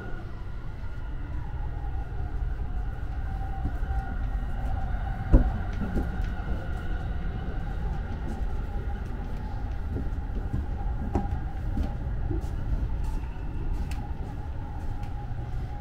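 Running noise inside a 285 series sleeper train car in motion: a steady low rumble with a faint hum. One sharp knock about five seconds in.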